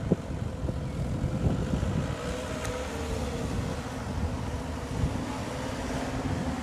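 Steady low rumble of vehicle engines with wind buffeting the microphone, and a faint wavering engine tone that comes in about two seconds in.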